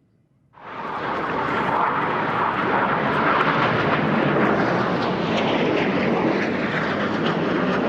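Jet aircraft engine noise from Red Arrows BAE Hawk jets flying their display, cutting in suddenly about half a second in and then holding steady and loud.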